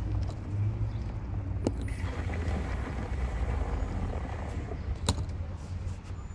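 Car on the move: steady low engine and road rumble, with a louder hiss in the middle and two sharp clicks, near two and five seconds in.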